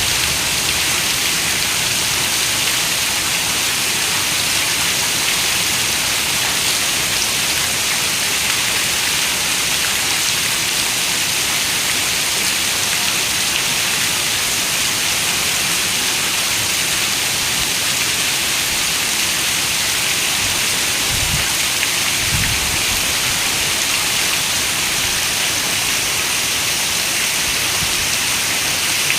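Steady rain falling, an even hiss without let-up, with a brief low rumble about two-thirds of the way through.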